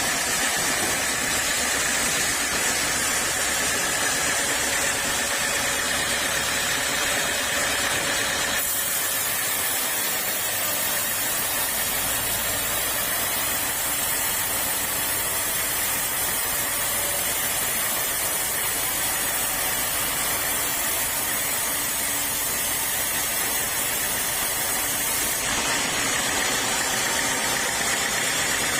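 Sawmill machinery running steadily, a motor-driven saw with a continuous hiss and hum. The sound changes abruptly about nine seconds in and again near the end.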